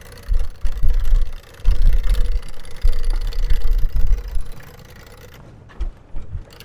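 Wind buffeting the camera microphone in irregular low gusts for about four seconds, then easing off. A faint steady hum runs underneath.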